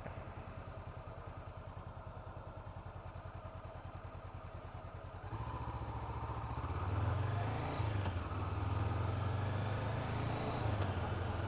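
2017 Honda CB500F's parallel-twin engine idling with a steady low pulse, then getting louder about five seconds in as the bike pulls away and rides on.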